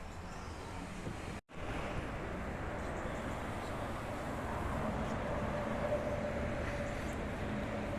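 Railway train running: a steady rushing noise that slowly grows louder, with a faint steady whine over the last few seconds. The sound drops out for an instant about a second and a half in.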